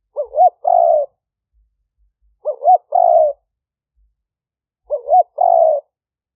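Spotted dove cooing its three-part song three times, each phrase two short rising notes then a longer coo, about every two and a half seconds. It is a decoy dove's call recorded for playing back to lure wild spotted doves.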